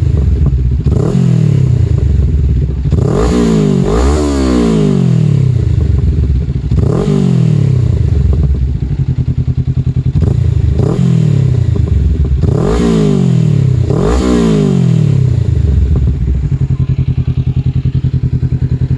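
Honda Rebel 500 parallel-twin engine through an aftermarket stainless full-system exhaust, revved in a series of quick throttle blips, each rising sharply and falling back. It settles to a steady idle near the end.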